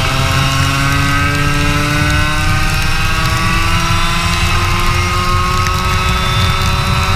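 Racing kart engine running, its pitch sinking slowly over the first few seconds as the revs fall, then levelling off and edging up a little near the end, over a steady low rumble.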